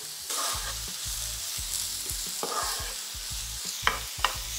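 Sliced mushrooms, onions and garlic sizzling in a hot nonstick frying pan while a wooden spatula stirs them, with scraping strokes twice and two sharp clicks near the end.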